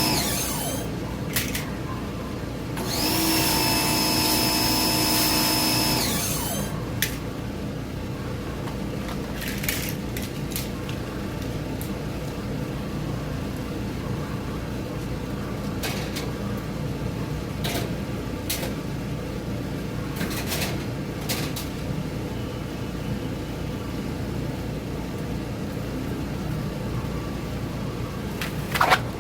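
A small power-tool motor whines at a steady pitch. One run ends about half a second in, and a second run lasts about three seconds, starting about three seconds in. After that a steady low hum remains, with scattered light clicks and knocks.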